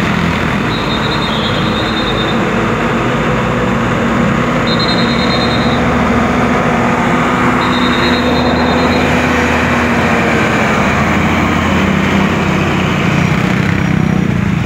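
Heavy truck diesel engines running steadily on a mountain road. A high tone comes and goes several times over the engine.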